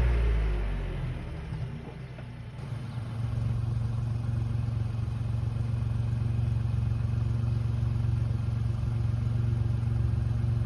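VW up! GTI's turbocharged 1.0-litre three-cylinder engine, fitted with a Forge intake and the stock exhaust, falling back from a rev and settling into a steady idle about three seconds in.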